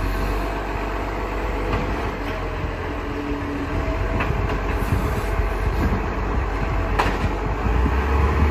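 Recycling garbage truck's diesel engine running with a steady low rumble, rattles and an occasional sharp click, growing louder near the end.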